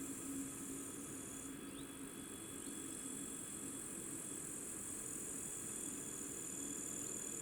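Steady high-pitched buzzing of insects such as crickets, with a faint low hum underneath and no passing train heard.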